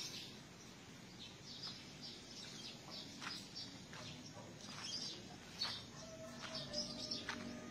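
Birds chirping outdoors in short, scattered calls, with faint background hiss.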